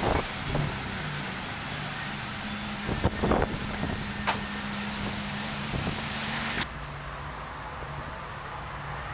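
Car engine idling steadily, with a hiss over it that cuts off suddenly about two-thirds of the way through, and a few short knocks.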